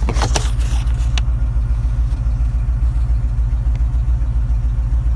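Pickup truck engine idling steadily through its newly fitted muffler, a low, even exhaust pulse. A few light clicks in the first second.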